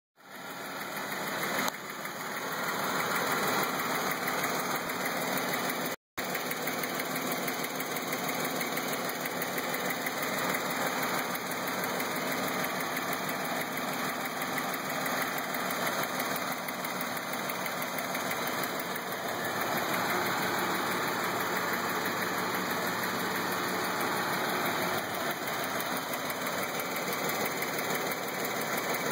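2012 Jeep Wrangler's 3.6-litre V6 idling steadily with a persistent engine tick. The sound cuts out for a split second about six seconds in.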